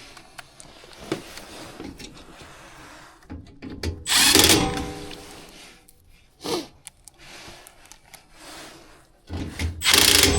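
Cordless drill driving screws in short runs: a run of about a second roughly four seconds in, a brief one a couple of seconds later, and another starting near the end.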